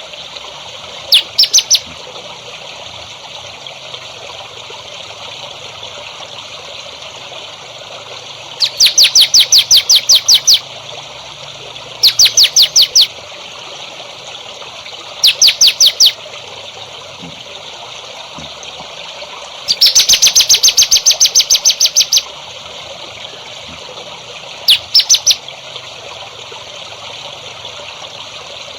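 A songbird repeating short bursts of rapid, sharp high notes, about five a second, the longest runs lasting around two seconds, over a steady trickle of running water.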